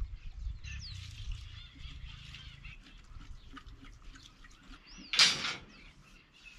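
Birds chirping and calling, with a low rumble in the first few seconds and one loud, harsh squawk about five seconds in.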